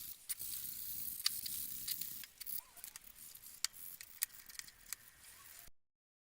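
Hands-on workshop work: a steady hiss with scattered sharp clicks and taps, cutting off abruptly near the end.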